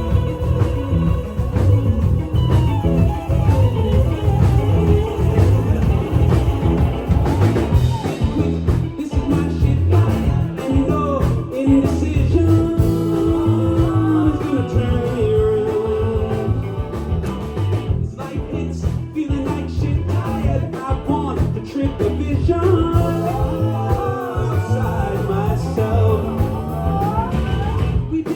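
Live rock band playing loud, with drums, bass, electric guitar and a singing voice, as recorded from the audience.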